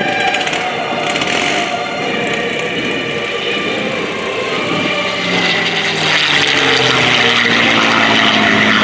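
A P-51 Mustang's Packard-built Merlin V-12 engine droning through a flyby pass. It grows louder about two-thirds of the way in, and its pitch drops as it goes by.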